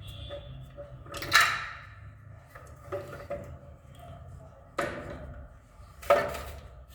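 Three sharp clattering knocks of hard objects being handled or set down, each with a short ringing tail, about a second in, near the middle and near the end, over a low steady hum.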